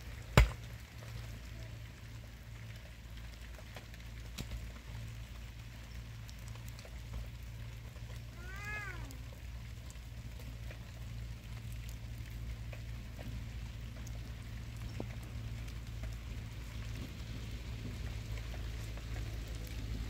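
Light rain on open ground over a steady low rumble, with one sharp knock of stone on stone about half a second in as rocks are handled. A short cry that rises and falls comes about halfway through.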